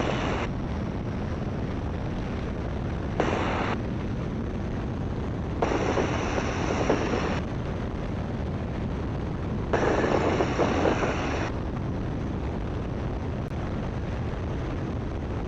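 Great Lakes open-cockpit biplane's engine and propeller droning steadily in flight, heard from the cockpit. Four bursts of loud hiss cut in and out over it, each lasting between half a second and two seconds.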